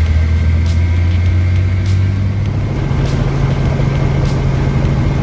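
Helicopter in flight: a steady low drone with a thin high whine above it. The low tone steps up in pitch about halfway through.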